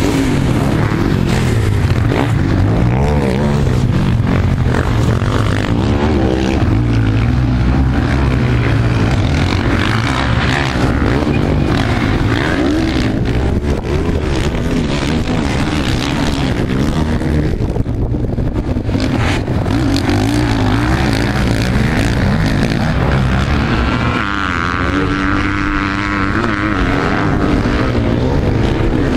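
Sidecarcross outfits' motorcycle engines revving hard and easing off as they ride a dirt motocross track, the pitch rising and falling continuously.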